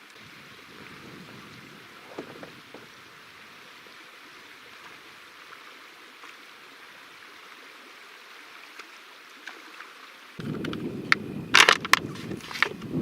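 Canoe out on a lake with quiet water sounds around the hull. About ten seconds in, wind starts buffeting the microphone and several sharp knocks follow against the canoe.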